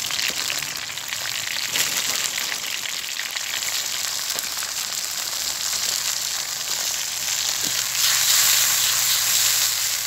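Duck and partridge with mushrooms sizzling in a hot wok, a dense crackling hiss that grows louder about eight seconds in.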